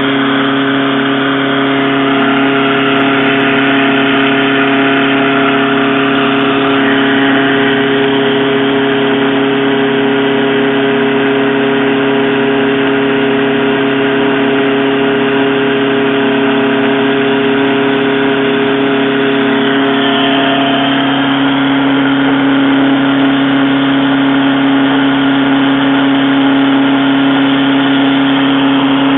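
A metalworking machine tool running steadily with a constant hum while cutting the seats for the guideways into the cross-slide plate of a lathe carriage.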